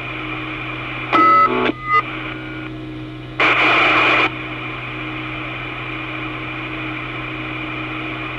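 Open two-way railway radio channel hissing, with a steady hum underneath. About a second in comes a short, loud burst of steady tones, followed by a brief blip, and at about three and a half seconds a burst of static lasting nearly a second.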